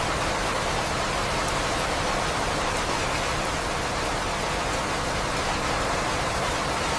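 Steady, even rain sound, a constant hiss with no distinct drops or thunder, from a looped sleep-sound recording.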